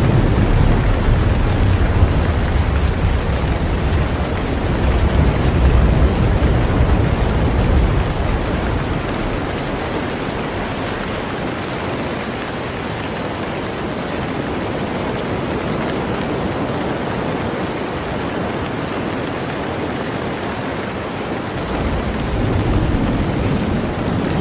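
Heavy rain falling steadily on a boat, an even hiss. A deep low rumble sits under it for the first several seconds, fades out, and returns near the end.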